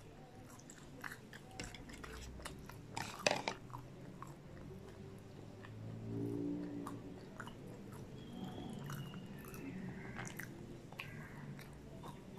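Close-miked mouth sounds of someone chewing fried popcorn chicken and potato wedges: wet chewing with many small crackles and clicks, and one loud sharp crackle about three seconds in.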